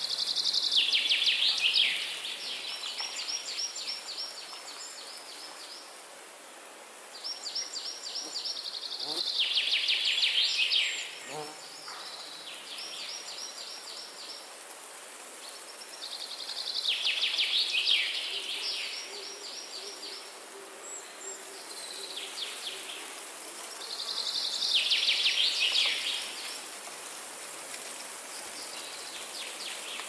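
A songbird repeating the same song about every eight seconds, four times, and starting a fifth near the end: a fast trill that falls in pitch, then a quieter run of repeated high notes. A steady background hiss runs under it.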